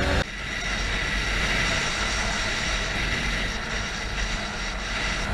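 A car driving, with a steady rumble of road and engine noise.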